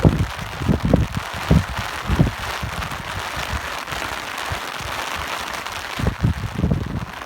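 Steady rain with gusts of wind buffeting the microphone: an even hiss of falling rain, broken by low irregular rumbles that cluster in the first couple of seconds and come back near the end.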